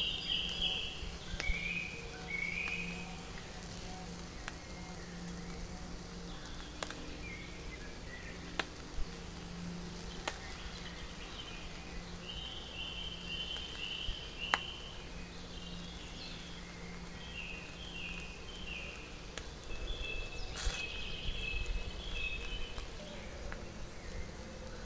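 Songbirds singing outdoors: runs of short, rapidly repeated chirps that come and go, over a quiet background with a faint low hum. A few isolated sharp crackles stand out, about half a dozen across the stretch.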